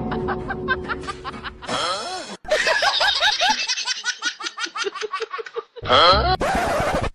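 Background music with a high-pitched, cartoon-style laughing sound effect in quick repeated syllables.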